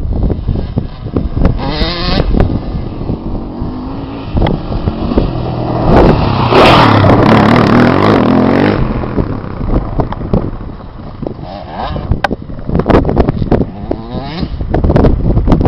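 Motocross bike engine revving up and down as it is ridden, loudest from about six to nine seconds in, with sharp knocks scattered throughout.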